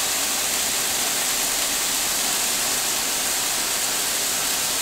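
Burger patties and sliced onions sizzling on a hot stovetop griddle: a steady, even hiss.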